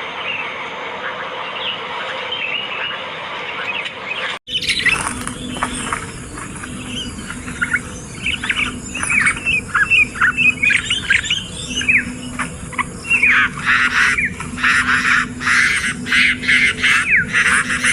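Sooty-headed bulbul (kutilang) calling: a dense hissing chorus for about four seconds, then after a sudden break a rapid run of short, sharp gliding call notes that grow denser and louder in the second half.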